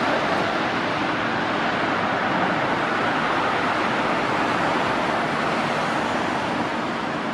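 Jet airliner engines, a steady rushing roar that eases off slightly near the end.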